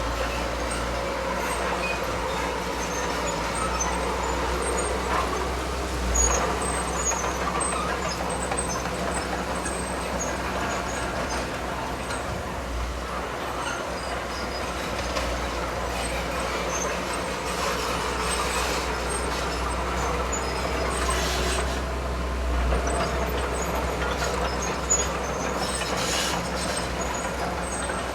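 Diesel engine of heavy earthmoving machinery (bulldozer or dump truck) running steadily with a low rumble, with a few brief hisses in the second half.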